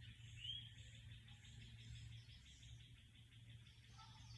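Faint outdoor ambience: a bird gives one short rising chirp about half a second in, over a steady high insect trill and a low hum.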